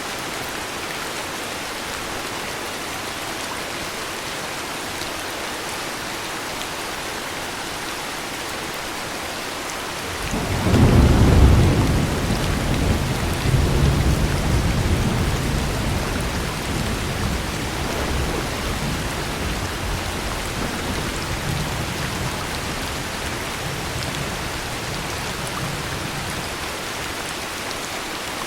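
Steady heavy rain, with a roll of thunder breaking in about a third of the way through. The thunder is loudest at first, swells again a couple of seconds later, then rumbles away slowly under the rain.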